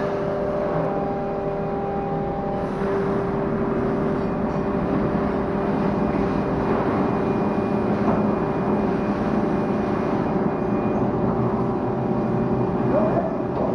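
Ship's anchor windlass running steadily, heaving in the anchor chain: a continuous machinery hum with a few steady tones.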